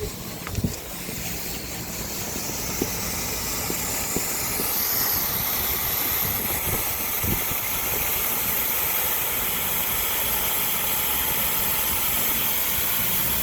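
Gas hissing steadily under pressure through a split air conditioner's pipework during flushing, building up over the first few seconds and then holding. A few light knocks come in the first half.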